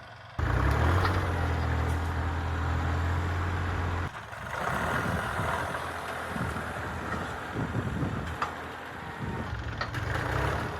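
Kubota L3902 tractor's diesel engine running, a steady low hum that drops out about four seconds in, after which the engine and machinery sound rougher and more uneven.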